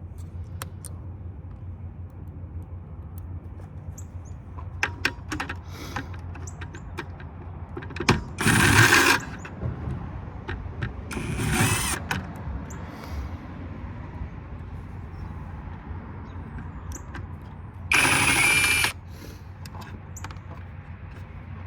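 A power driver fitted with a long socket extension runs in three short bursts, its motor pitch climbing in the second, as it tries to break loose a tightly seized fastener. Clicks of the tool and metal parts are handled between the bursts, over a steady low hum.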